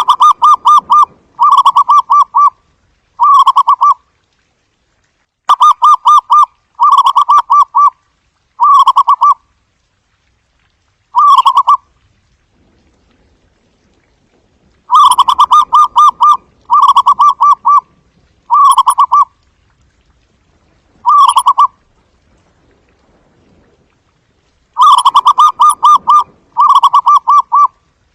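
Zebra dove singing its staccato cooing song. Each bout is a run of four or five quick, trilled coos that get shorter as the bout goes on, and a new bout starts about every ten seconds.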